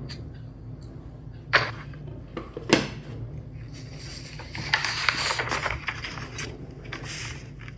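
Household handling sounds over a steady low hum: two sharp knocks, then a few seconds of rustling and scraping.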